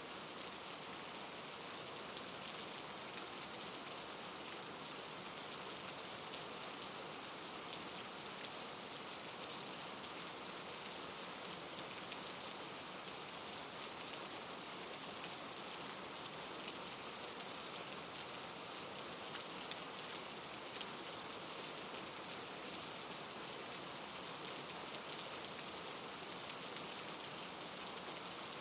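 Steady, soft rain falling, an even hiss with fine scattered drop ticks.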